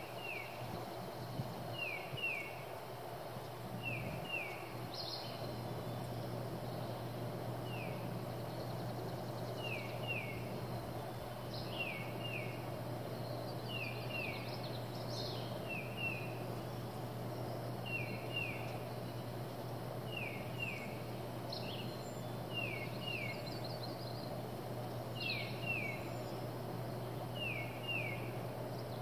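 Birds calling: one bird repeats pairs of short falling notes about every two seconds while others chirp higher, over a steady low hum.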